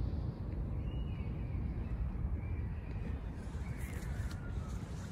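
A bird gives several faint, wavering calls that fall in pitch, over a steady low rumble.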